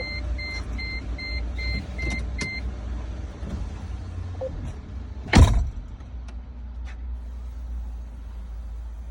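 Mercedes car's warning chime beeping rapidly, about three beeps a second, stopping after about two and a half seconds, over a steady low rumble. About halfway through comes one short, loud thump.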